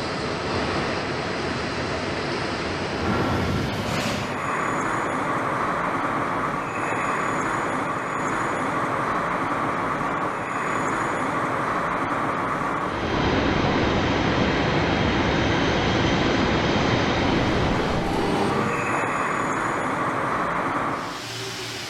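Steady mechanical running noise, like engines or heavy machinery, that shifts abruptly in tone and loudness several times.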